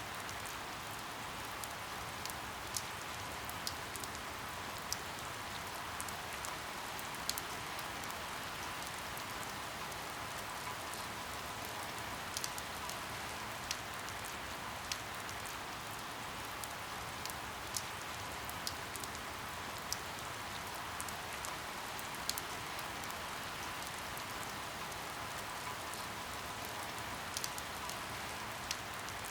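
Steady rain falling, with sharp drops ticking irregularly on a surface about once or twice a second.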